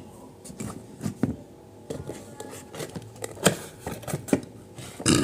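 Irregular sharp clicks and knocks of something being handled at close range, a dozen or so, with a louder cluster near the end, over a faint steady hum.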